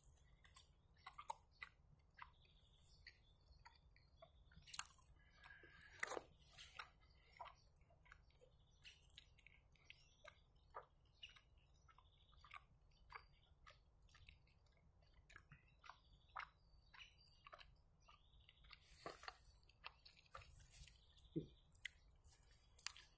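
Faint close-up chewing of a fried, meat-filled belyash: sparse soft mouth clicks and smacks, a little busier near the end as he takes another bite.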